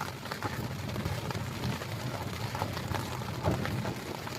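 Rain pattering on nearby surfaces: scattered drop ticks over a steady low rumble.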